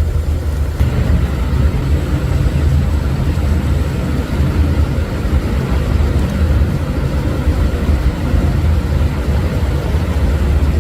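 Steady, loud low rumble with no clear rhythm or pitch.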